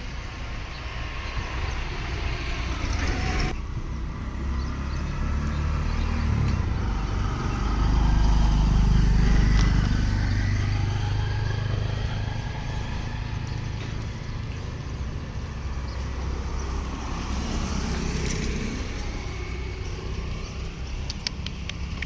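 Road traffic running, with one vehicle passing close and getting loudest about eight to ten seconds in, then fading.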